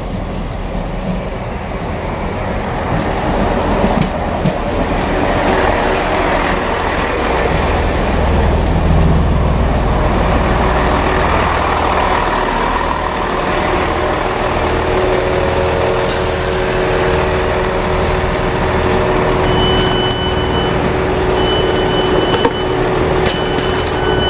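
Class 166 Turbo diesel multiple unit running into the platform and slowing to a stop, with its diesel engines and wheels on the rails making a low rumble. Near the end a high electronic tone sounds in short repeated stretches, as the doors are opened.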